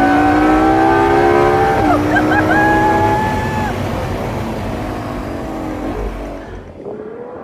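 LaFerrari Aperta's V12 engine pulling hard under acceleration, its pitch climbing, dropping at an upshift about two seconds in, then holding before the driver eases off after about three and a half seconds. Wind rumbles on the microphone in the open cockpit.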